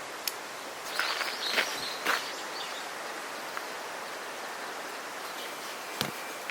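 Steady outdoor background hiss with a brief patch of rustling and crackling about a second in, and a couple of sharp clicks.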